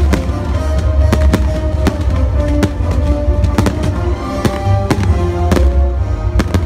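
Fireworks display: about a dozen sharp bangs at irregular intervals, over loud music with held notes and a heavy low rumble.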